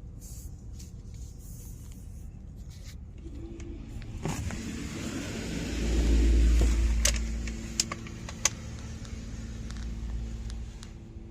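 Car engine running as the car creeps slowly forward into an automatic car wash bay. A louder swell of noise builds a little before the middle and fades, and a few sharp clicks follow.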